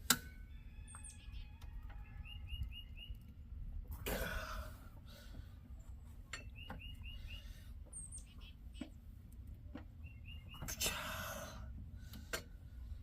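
A songbird repeating a short phrase of four quick, even chirps every few seconds, with a few higher twitters from another bird. A sharp metallic click at the start, a few fainter tool clicks and two brief rustling bursts come from hand tools working on the engine.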